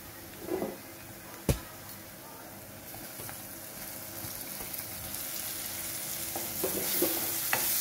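Chopped onion, garlic and chillies frying in oil in an aluminium kadhai, sizzling steadily while a steel spatula stirs and scrapes them, with one sharp knock about a second and a half in. The sizzle grows louder over the last couple of seconds as chopped tomatoes go into the hot oil.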